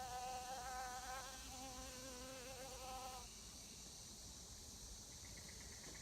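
Honey bees buzzing close by, a wavering hum that cuts off about three seconds in, leaving faint hiss.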